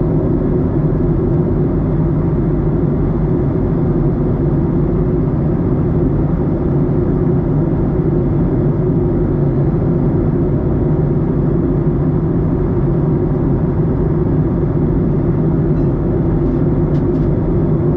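Steady cabin noise inside a Boeing 737-900ER on approach: an even rumble of its CFM56-7B engines and the airflow, unchanging in level, with a few faint light ticks near the end.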